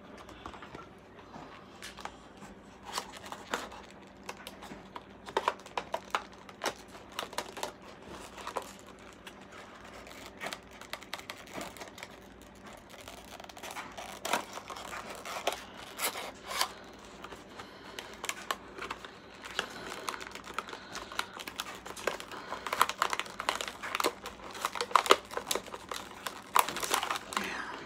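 Diecast model car's packaging being worked open by hand: crinkling and tearing with many scattered clicks and taps, busier in the second half, as the package resists opening.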